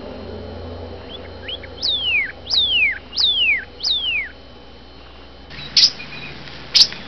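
Northern cardinal singing: a couple of short rising notes, then four loud clear whistles, each sliding steeply down in pitch, about two every three seconds. Two sharp clicks follow near the end.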